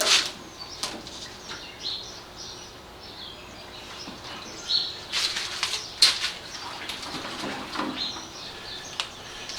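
Irregular clicks, knocks and rustling from handling a motorcycle fuel tank while trying to drain the gasoline out of it, with a cluster of louder scraping and rustling about five to six seconds in.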